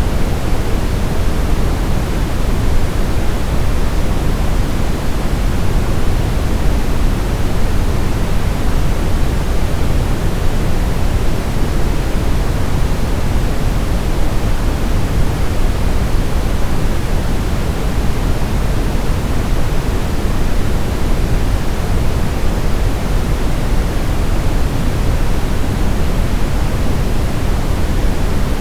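Steady, unchanging sleep-aid white noise, with most of its weight in the low end like pink noise, an even hiss with no breaks or changes.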